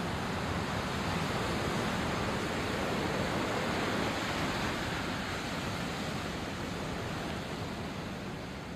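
Sea surf washing onto the shore: a steady rush of water noise that swells to a peak about four seconds in and then slowly ebbs away.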